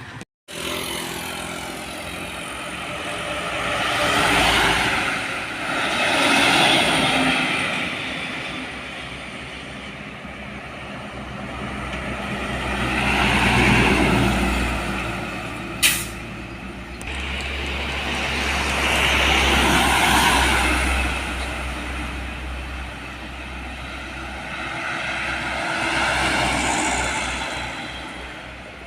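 Heavy trucks and other road traffic passing one after another, each pass swelling and fading over a few seconds, about five in all. A brief sharp hiss comes around the middle.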